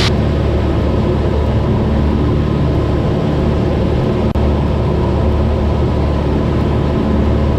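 Cessna 172's piston engine and propeller droning steadily in cruise flight, heard from inside the cabin, with a momentary dip in level about four seconds in.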